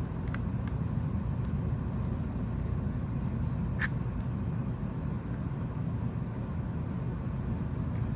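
Steady low background rumble with a few faint light clicks, one sharper about four seconds in, from small phone parts and tools being handled during the repair.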